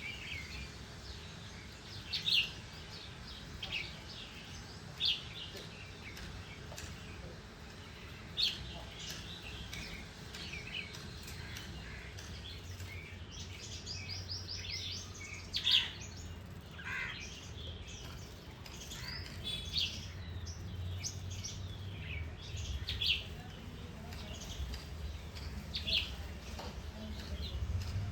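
Small garden birds chirping: short, separate high calls come every second or two, with a quick run of rapid notes about halfway through. A low steady rumble lies underneath and grows louder near the end.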